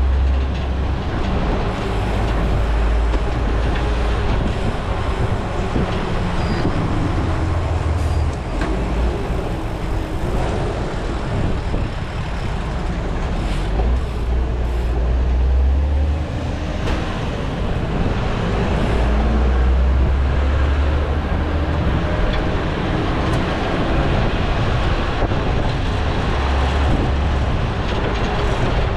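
Wind rushing over an action camera's microphone on a moving road bike, with low buffeting that swells and drops every few seconds, over steady road and traffic noise.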